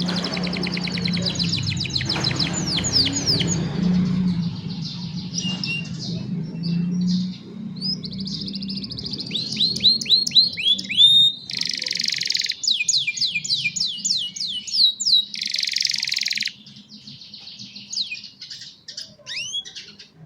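Young domestic canaries singing: fast repeated trills, runs of quick downward-sweeping notes and dense buzzy rolls, with the song thinning out and quieter toward the end.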